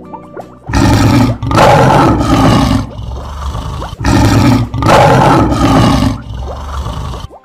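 Lion roar sound effect, heard twice, each roar lasting about two seconds.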